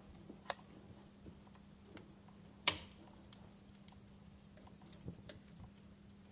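Fireplace fire crackling with sparse, irregular pops, one sharp loud crack about two and a half seconds in, over a faint steady hum.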